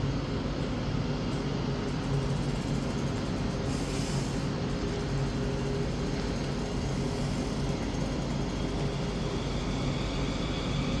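Train running steadily: an even rumble with a low hum that neither builds nor fades.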